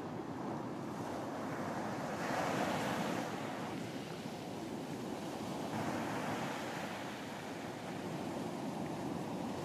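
Ocean surf washing onto a beach, with waves swelling and receding about twice.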